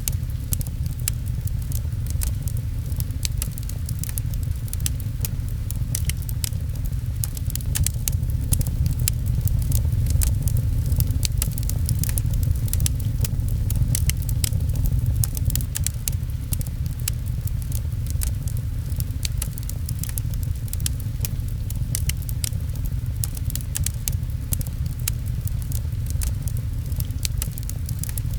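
Fireplace wood fire crackling, with frequent sharp pops over a steady low rumble, mixed with the patter of rain.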